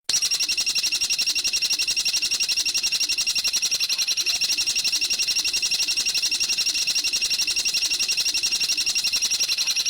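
A songbird's rapid, unbroken chattering trill of about thirteen high notes a second, held steadily and starting and stopping abruptly as a looped training recording.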